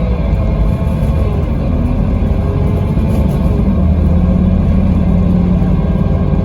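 Scania K320IB4 coach's diesel engine running, a steady low drone with a stronger pitched hum from about four to five and a half seconds in.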